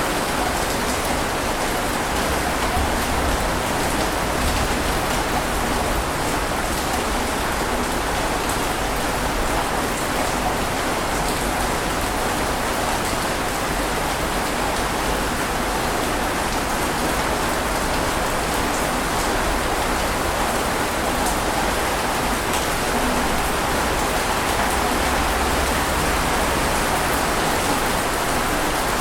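Steady, heavy rain falling and pattering on surfaces, an even hiss with scattered drop ticks.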